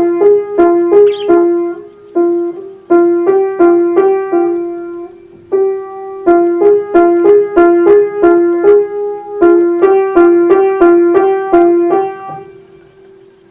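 Piano notes: a simple tune rocking between two neighbouring notes in short, even phrases with brief pauses. The last note rings out and fades about a second before the end.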